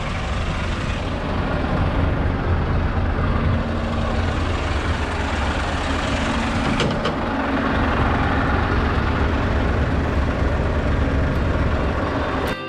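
Scania S650 truck's V8 diesel engine running steadily with a deep rumble, with a couple of brief clicks about seven seconds in.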